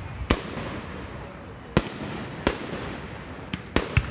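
Fireworks display: aerial shells bursting with sharp bangs, about five at irregular spacing, the last two close together near the end.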